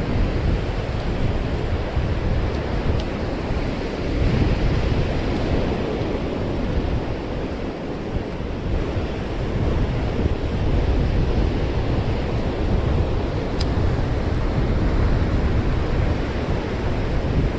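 Surf washing on a sandy beach, a steady rushing noise, with wind buffeting the microphone as a low rumble.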